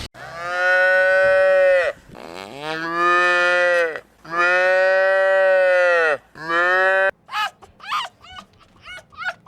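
Cattle mooing: five drawn-out moos in a row, some about two seconds long and one shorter rising one. About seven seconds in the sound changes abruptly to a quick run of short, high calls, two to three a second, from a different animal.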